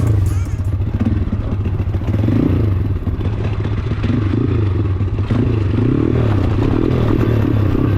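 Pit bike engine running under load and revving up and down repeatedly as the bike is ridden off-road.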